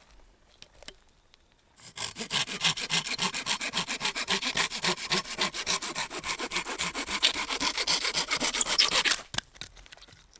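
Hand saw cutting through wood in quick, even back-and-forth strokes, starting about two seconds in and stopping about nine seconds in.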